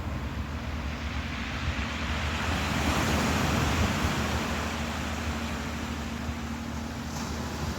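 Ocean surf washing in, the wash swelling about three seconds in and easing off again, over a steady low rumble and a faint constant hum.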